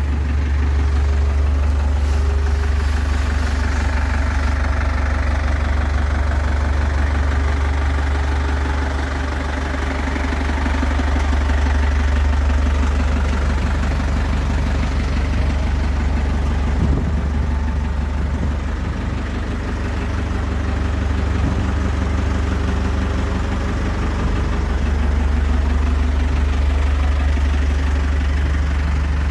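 Thwaites 6-tonne site dumper's diesel engine idling steadily, with a strong low hum.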